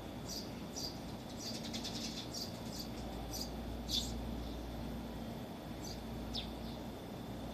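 Small birds chirping, short high chirps coming every half second or so, with a cluster about two seconds in and a louder chirp about four seconds in. A faint steady low hum runs underneath.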